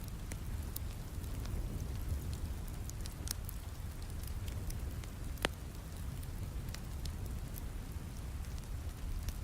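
Steady rain with a low rumble, mixed with a crackling fireplace: scattered small pops and snaps, one sharper pop about halfway through.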